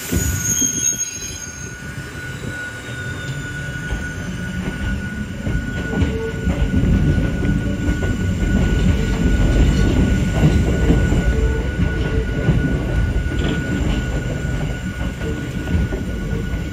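Hakone Tozan Railway Moha 1 electric car running on the rails, with a steady rumble that swells toward the middle and a thin, steady high-pitched wheel squeal. A brief, higher squeal fades out about two seconds in.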